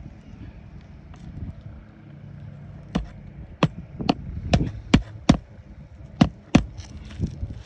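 Hammer driving a roofing nail into an asphalt shingle: about nine sharp blows in irregular quick succession, starting about three seconds in, over low wind noise on the microphone.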